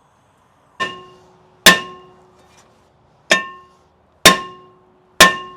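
A hammer striking the rust-seized steel hub on a 2013 Ram 2500's front axle to drive it off: five hard blows about a second apart, the first lighter, each leaving a ringing metallic tone that dies away.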